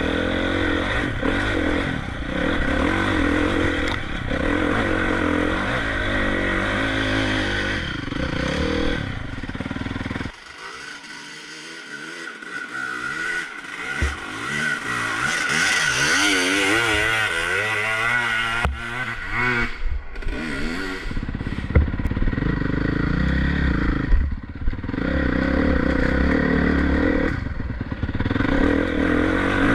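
Motocross bike engine revving hard on a hill climb, the pitch rising and falling with the throttle. It drops away and goes quieter about ten seconds in, then revs up again, with a few sharp knocks along the way.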